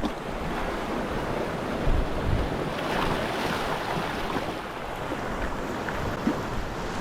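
Sea water lapping and splashing around a boat, with wind buffeting the microphone and a few soft knocks.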